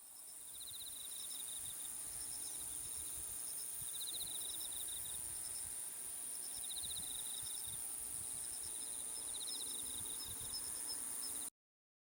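Field ambience of insects and birds: a steady high insect drone, with a short trilled call that repeats about every three seconds and fainter chirps. It fades in at the start and cuts off abruptly near the end.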